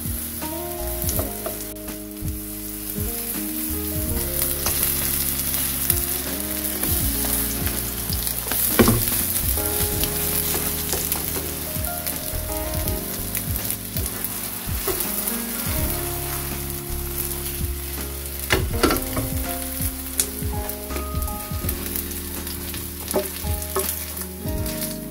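Seaweed pancakes sizzling as they fry in oil in a nonstick frying pan, with a few sharp taps and scrapes of the spatula against the pan. Background music plays underneath.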